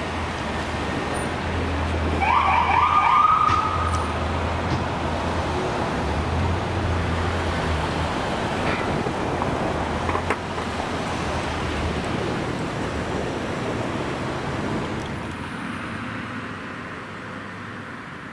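Emergency vehicle going by with heavy engine and road noise. A short, rising siren sweep sounds about two seconds in, and the vehicle noise fades away near the end.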